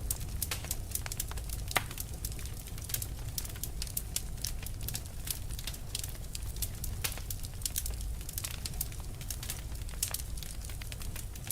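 Fire crackling, with many sharp, irregular pops and snaps over a steady low rumble.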